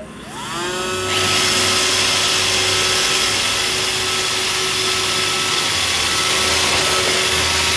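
iRobot Roomba 561 robot vacuum starting a straight run: its motors spin up with a rising whine over the first second, then run steadily as it drives forward cleaning.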